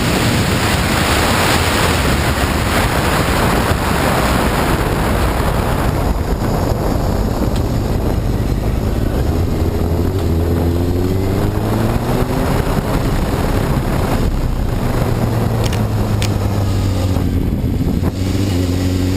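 Wind rushing over the microphone on a moving Honda CBR954RR sport bike. Its inline-four engine comes through from about nine seconds in, its note rising and falling in pitch.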